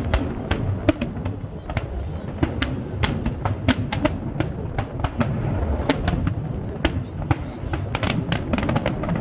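Fireworks going off: a rapid, irregular string of sharp bangs and crackles over a continuous low rumble.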